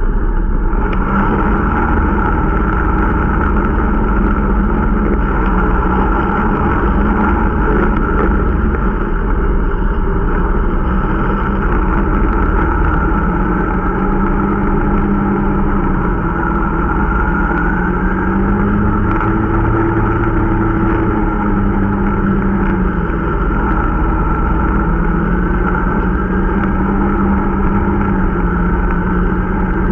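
Irbis Dingo T125 snowmobile's 125 cc single-cylinder four-stroke engine running under way, its pitch rising and falling a little with the throttle. The engine is being run in.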